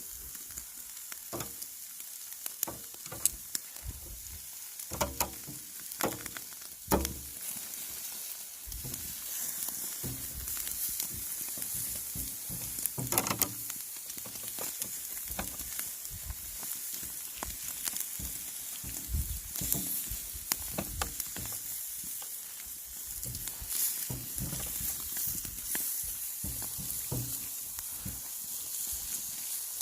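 Marinated pork bulgogi sizzling on a wire grill over charcoal: a steady hiss with crackles and sharp clicks scattered through, the loudest clicks in the first few seconds.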